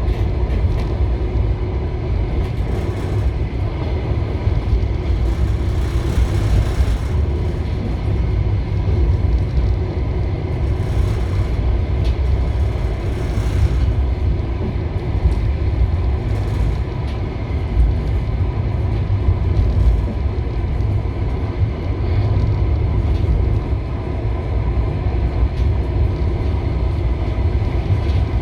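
Steady rumble and clatter of a moving passenger train's wheels on the rails, heard from inside the carriage.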